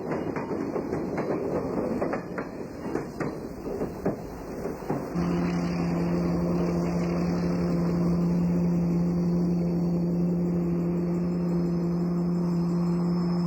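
Train rolling on the track with clanking and knocking for about five seconds. A steady droning sound of held low tones then cuts in abruptly.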